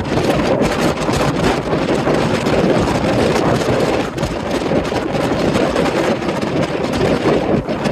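Strong typhoon wind blowing and buffeting the microphone, a loud steady rushing that surges and dips.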